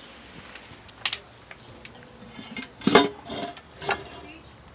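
A few metallic clinks and knocks from scrap air conditioner compressor parts being handled, the loudest clank about three seconds in, followed by two lighter ones.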